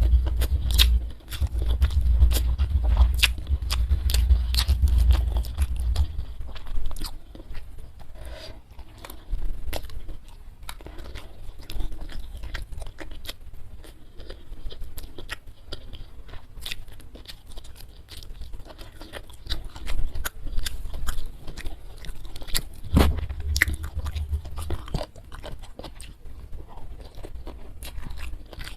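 Close-miked chewing and crunching of food with many small wet mouth clicks. Heavy low thudding comes through in the first six seconds and again for a couple of seconds past the twenty-second mark.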